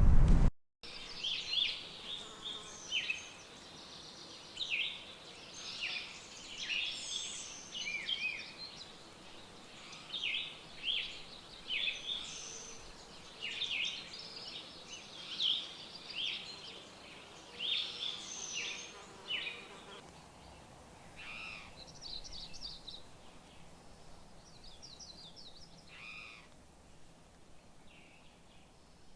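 Wild birds singing: a busy run of short chirps and quick trills, thinning out to fewer, fainter calls in the last third.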